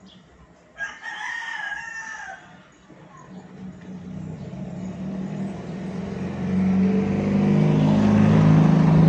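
A rooster crows once about a second in. Then an engine starts up and runs, growing steadily louder over the next few seconds and settling into a steady run, after being hard to start for lack of fuel in the fuel hose.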